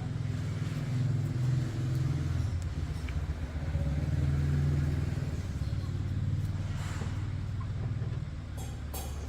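Motorcycle engine running, a low rapid pulsing whose speed and loudness rise and fall a little.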